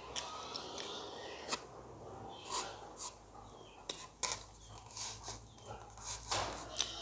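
Close-miked chewing of a soft chocolate-glazed doughnut, with wet mouth clicks and smacks scattered irregularly throughout.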